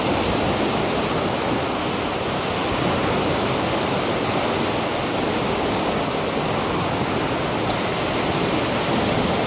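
Steady rushing of sea water washing along the shore, an even noise that neither rises nor falls.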